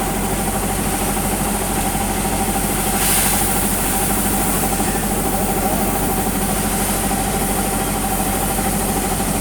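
Combine harvester's diesel engine running steadily, with a brief rush of hiss about three seconds in.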